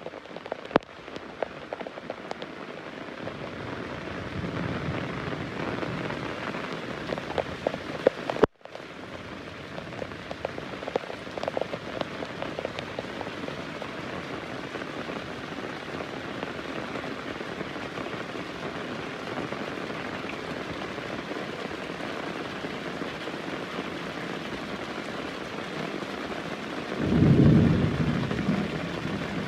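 Heavy rain falling steadily, with sharp drop hits on a surface and a brief cut-out about eight seconds in. Near the end a loud, low rumble of thunder.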